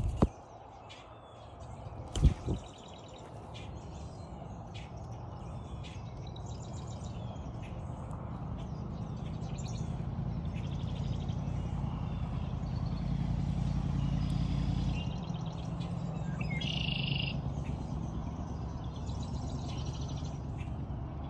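Small birds chirping and calling repeatedly, with one louder call near the end. Under them a low rumble swells through the middle and fades, and there is a single knock about two seconds in.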